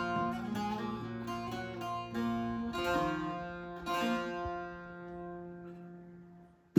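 Solo bağlama played in zeybek style: a run of quick plucked notes, then a few single notes struck and left ringing, dying away to near silence near the end.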